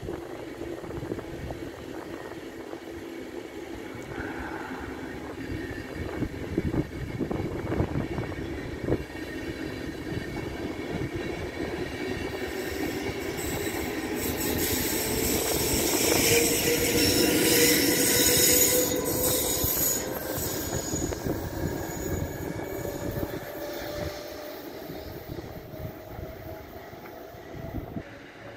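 SBB passenger train of red-and-white coaches rolling along the platform track: a steady rumble of wheels on rail, with a whine that rises slowly in pitch over about fifteen seconds. It is loudest about two-thirds of the way through, then eases off.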